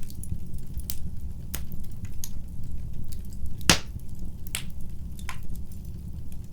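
Fire crackling in a fireplace: a steady low rumble of burning with sharp pops about once a second, the loudest a little past the middle.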